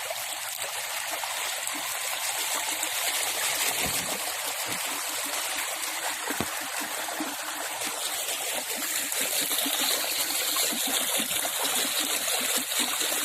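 Floodwater running steadily past, a continuous rushing and trickling, with a couple of faint knocks about four and six seconds in.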